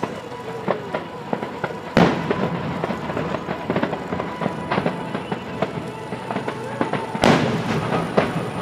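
Aerial fireworks display: a dense crackle of small sharp reports, with two loud booms, one about two seconds in and one near the end.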